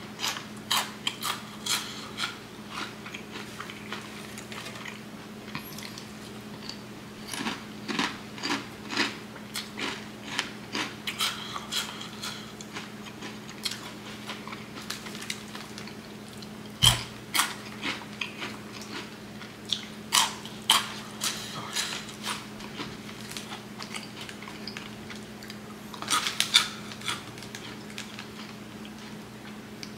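Close-up crunching and chewing of Flaming Hot Cheetos, crisp crackling bites coming in clusters over a steady low hum. There is one heavier thump about 17 seconds in.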